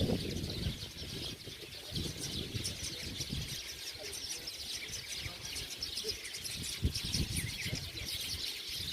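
A dense chorus of many small birds chirping and twittering without pause, with a few low bumps underneath, the loudest right at the start and about seven seconds in.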